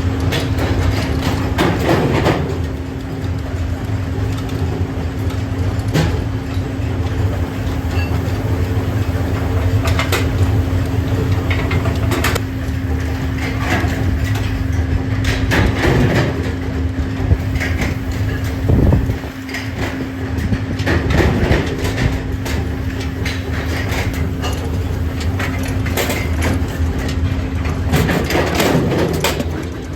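Workshop machinery running with a steady hum and low rumble, under frequent irregular metal knocks and clanks from parts being handled and worked.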